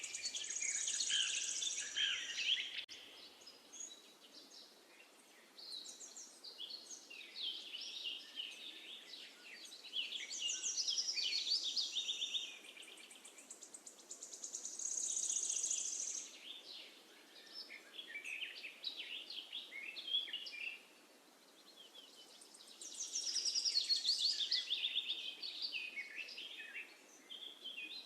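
Songbirds singing: phrases of quick, high chirps and trills lasting a couple of seconds each, coming again every few seconds, over a faint steady background hiss.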